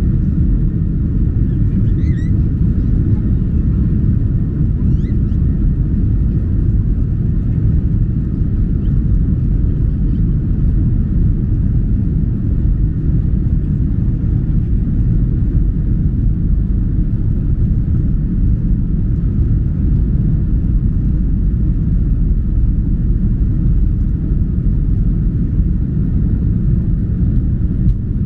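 Steady, loud low rumble inside the cabin of a Boeing 737-800 as its CFM56 engines run at takeoff power, mixed with the rush of air and wheels. A few faint short squeaks come in the first few seconds.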